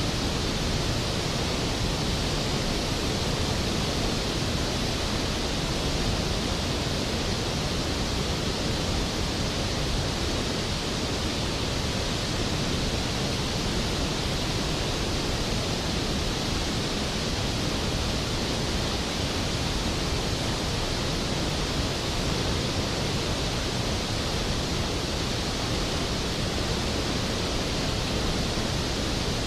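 Skógafoss waterfall: a large waterfall's falling water as a steady, dense rush of noise, even and unchanging.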